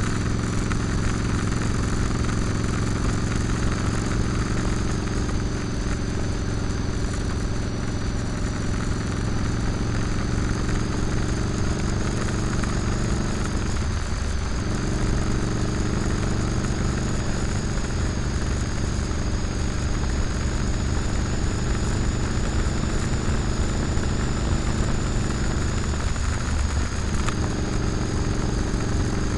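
Motorcycle engine running steadily at cruising speed under a steady rush of noise. The engine note wavers briefly twice, about halfway through and near the end.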